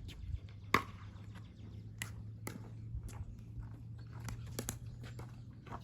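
Scattered sharp pops and taps of a plastic pickleball against paddles and the court, irregularly spaced, with one loud pop about a second in. A steady low hum lies under them.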